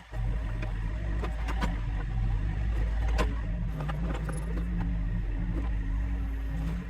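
Heavy equipment's diesel engine running steadily under load, with scattered metallic clanks and rattles on top.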